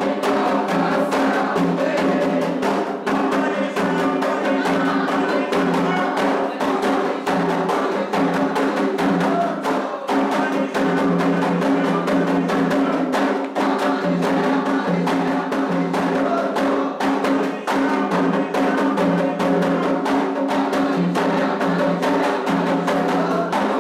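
Candomblé toque for Omolu: atabaque hand drums played in a fast, steady rhythm with a struck bell part, under a group of voices singing.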